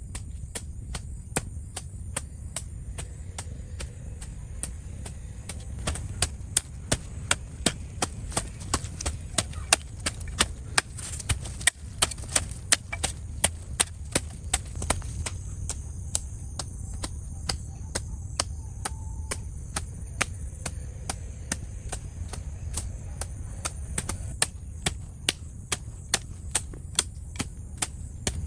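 Rhythmic chopping: a tool striking over and over at about two to three blows a second, harder through the middle stretch and again near the end. A steady low hum and a steady high-pitched buzz run underneath.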